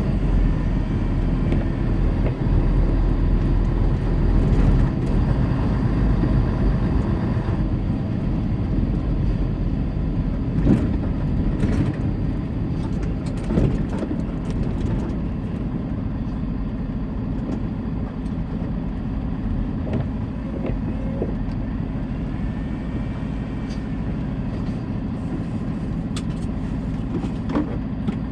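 Semi-truck running down the highway: a steady diesel engine hum under tyre and road noise from the tractor-trailer. The higher road noise eases about eight seconds in, leaving mostly the low, even engine drone.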